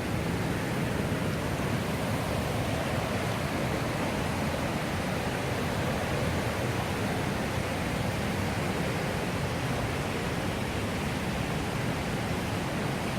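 Millstone River water rushing steadily, a continuous even noise with no breaks.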